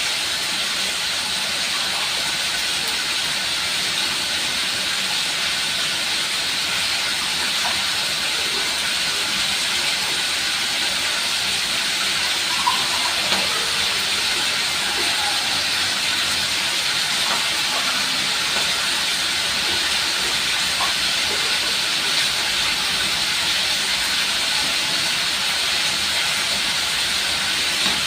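Food frying in hot oil, a steady sizzle, with a few faint clicks about halfway through.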